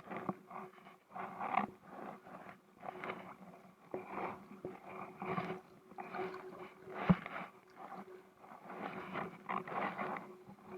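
Kayak paddle strokes in the water, a swishing splash about every second and a half, with one sharp knock about seven seconds in.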